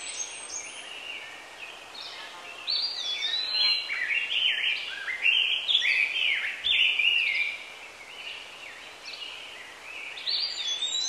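Birds chirping and calling: a busy run of quick, whistled up-and-down notes that thickens a couple of seconds in, thins out, and picks up again near the end, over a steady outdoor hiss.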